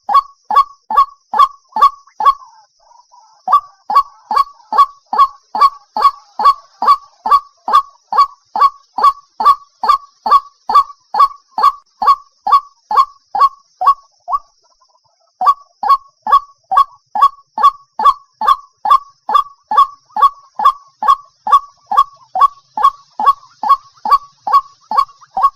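White-breasted waterhen calling: one short note that falls in pitch, repeated evenly about two and a half times a second, with two brief breaks.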